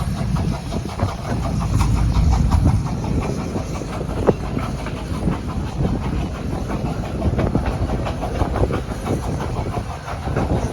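A 15-inch-gauge miniature railway train running along, its wheels clicking and clattering rhythmically over the rail joints over a steady rumble, with a sharper clack about four seconds in.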